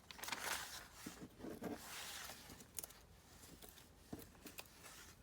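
Faint paper rustling and light handling sounds, with a few soft clicks and swishes, as paper tabs are placed on a journal's pages.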